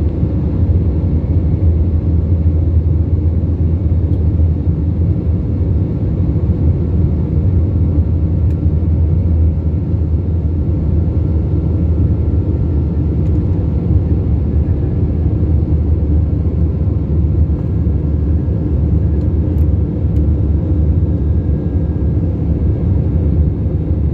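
Steady cabin noise of an Airbus A321-family jet airliner heard from inside: engine and airflow rumble, low and unbroken, with a faint steady hum over it.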